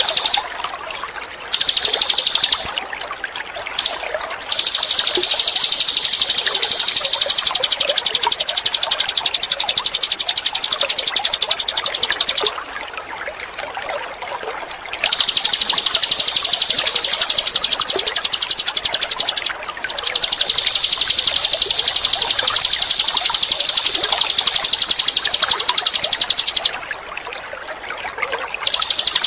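Ninin eurih songbird singing long, very fast, high-pitched trills, each running several seconds with short breaks between, over steadily trickling water.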